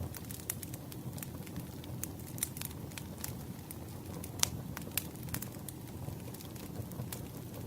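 Campfire burning with a steady low rumble and frequent irregular crackles and pops, the sharpest snap about four and a half seconds in.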